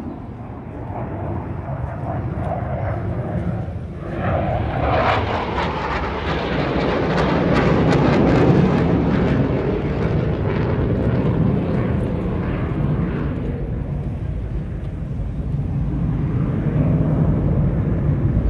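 Saab 35 Draken jet fighter flying past: its jet engine noise swells about four seconds in, is loudest around the middle, then eases off and rises slightly again near the end.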